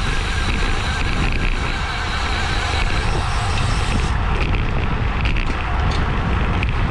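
Wind rushing over a bicycle-mounted action camera's microphone at race speed, a loud, steady buffeting rush.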